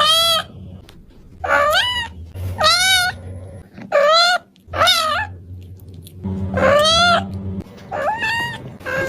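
Domestic cat meowing repeatedly, a series of drawn-out meows about one a second, each rising and then falling in pitch.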